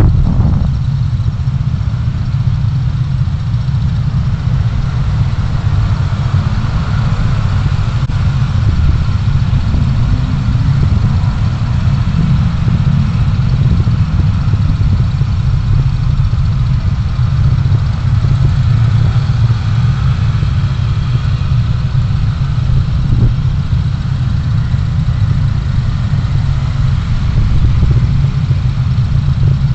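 A car's engine and road noise, a steady low rumble picked up by a dashcam inside the car while driving.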